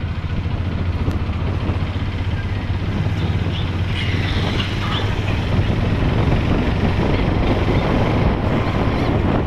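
Motorcycle engine running steadily, a low throb under a broad noisy haze. A few faint high chirps come about halfway through.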